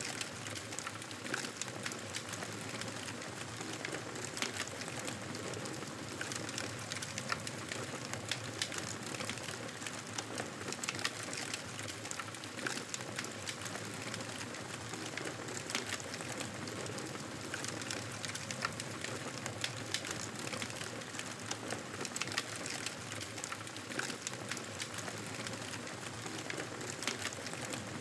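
Campfire burning: a steady hiss of flames with frequent, irregular crackles and pops from the burning wood.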